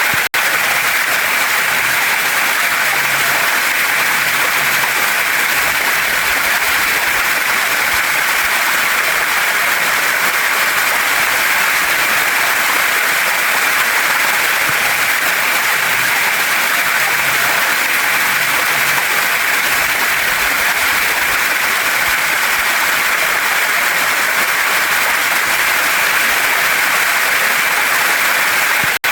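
Waterfall and mountain stream running over rocks: a steady, unbroken rush of water.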